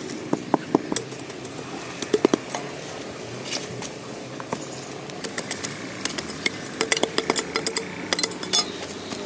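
Irregular sharp clicks and snaps, some coming in quick clusters, over a steady low background hum.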